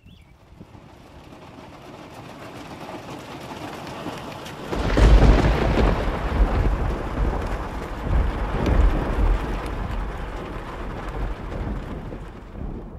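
Steady rain falling during a thunderstorm, with a loud roll of thunder breaking in about five seconds in and rumbling on, swelling again a few seconds later before slowly fading.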